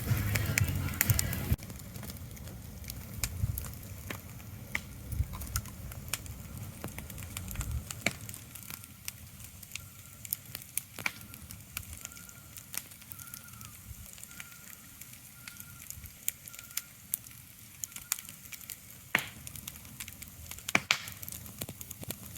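Ambient soundscape of irregular crackling and popping clicks over a soft hiss. A low rumble under it drops sharply about a second and a half in and fades out about eight seconds in.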